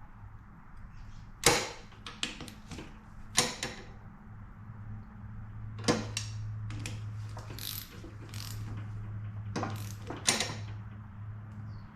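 Hand ratchet clicking in short runs as the crankcase bolts on a Yamaha YZ125's split engine cases are tightened, with a steady low hum in the background.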